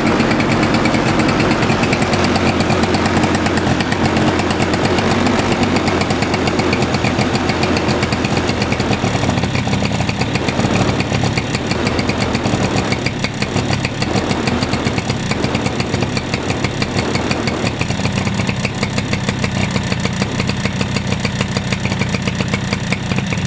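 Suzuki Address 110 scooter's single-cylinder engine running at low revs, with a persistent foreign ticking in the engine that the owner suspects is the piston or wrist pin knocking.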